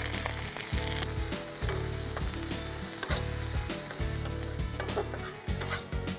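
Sliced onions sizzling in hot oil in a metal kadai, stirred with a metal spatula that gives a few clicks and scrapes against the pan.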